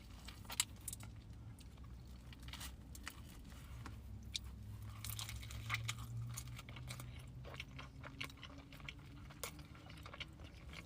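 Close-up chewing and biting of greasy pepperoni pizza, with scattered crunches and wet mouth clicks.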